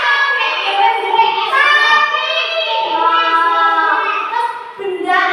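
High voice singing a melody in held notes that step up and down in pitch.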